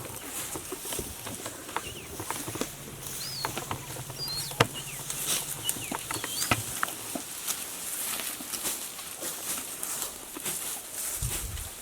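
Outdoor ambience of scattered clicks and rustling, with a few brief bird chirps in the middle and a low steady hum for a few seconds.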